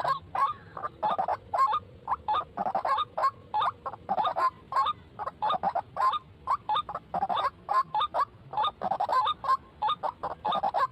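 White-breasted waterhen calls: short croaking notes repeated rapidly, several a second, in uneven runs.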